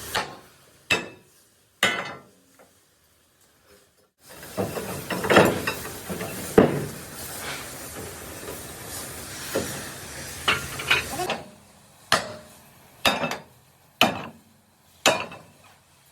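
Metal-working hammer blows on mild steel sheet: a couple of sharp knocks, then a stretch of hissing workshop noise, then four evenly spaced strikes about a second apart near the end.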